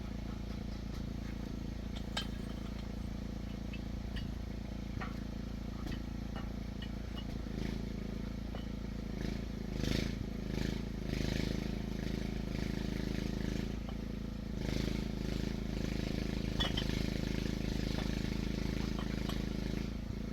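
An engine running steadily with a low hum, with scattered clicks and knocks and a busier stretch of clatter in the middle.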